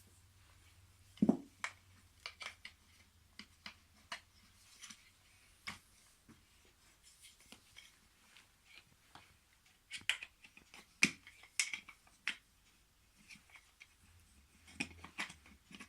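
Wooden toy train track pieces being handled and fitted together: irregular clicks and light knocks, with a louder thud about a second in and a quick run of clicks about ten seconds in.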